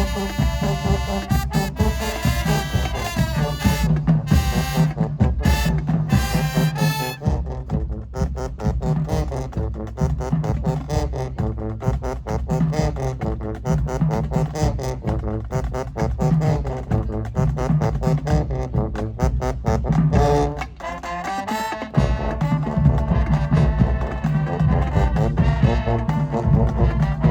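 High school marching band playing: brass horns over heavy drums. The low drums drop out for a moment about twenty seconds in, then the full band comes back.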